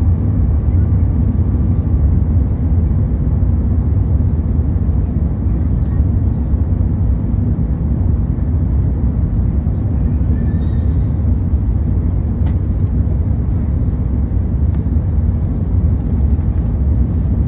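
Steady low cabin rumble of airflow and engines inside an Airbus A380 coming in to land, with a single sharp click about twelve seconds in.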